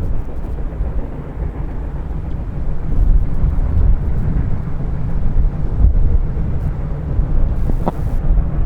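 Reading & Northern 425 steam locomotive and its train running, a steady low rumble with wind noise on the microphone and a brief faint tone about eight seconds in.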